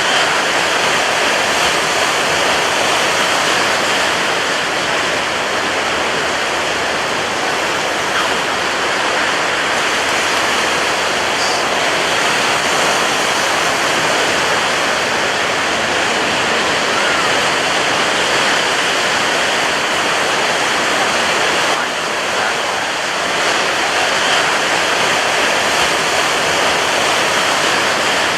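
Ocean surf breaking on a beach, a steady dense roar of crashing waves with no clear gaps between them.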